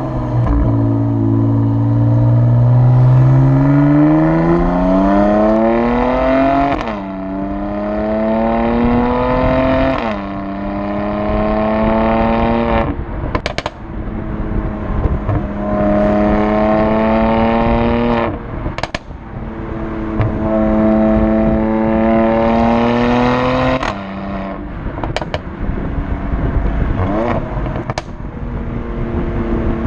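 Mercedes-AMG C43's twin-turbo V6 accelerating hard through the gears: the engine note climbs and then falls back at each upshift, over several pulls. A few sharp cracks sound in the gaps between pulls.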